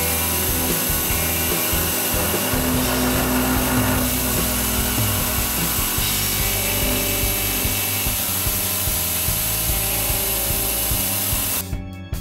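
CNC 6040 router spindle running while its end mill cuts aluminium plate under a water mist coolant spray: a steady, dense machining noise. Near the end the machining sound cuts off and music takes over.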